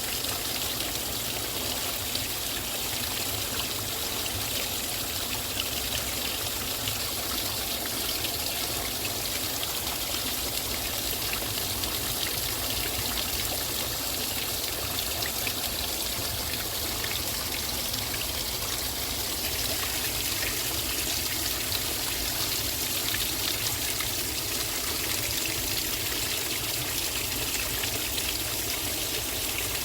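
Steady hiss of rainwater, falling and running, with many fine drop ticks throughout and no change in level.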